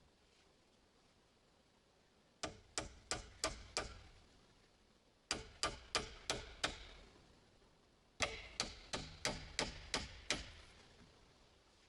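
Hammer blows in three quick runs, about three strikes a second: five, then five, then about seven, each blow sharp with a short ring.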